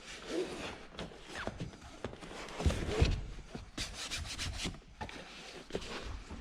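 Car interior trim being handled and fitted by hand: rubbing and scraping with scattered clicks and knocks, a couple of dull thumps about three seconds in, and a short run of quick ticks just after.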